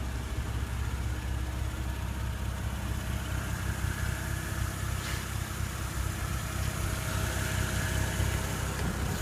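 2015 Porsche Cayenne S's 3.6-litre twin-turbo V6 idling steadily, with a light click about halfway through.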